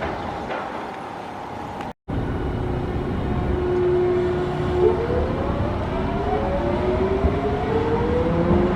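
Hiroshima Electric Railway tram pulling away: a steady electric whine that, about five seconds in, breaks into several rising tones as the traction motors speed up, over a low rumble of running gear. A brief dropout about two seconds in.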